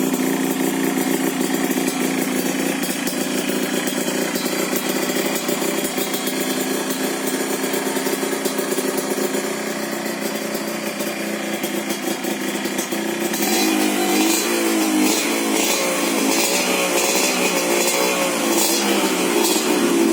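Yamaha RX King's two-stroke single-cylinder engine running through an aftermarket 'telo' racing exhaust, idling steadily, then revved up and down in repeated throttle blips from about two-thirds of the way in.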